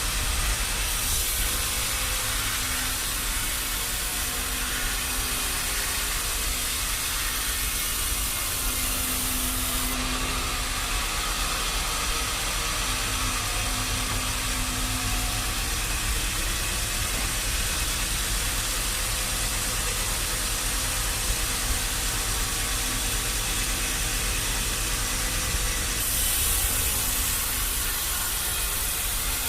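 Sawmill machinery running steadily: a constant engine drone under a broad hiss.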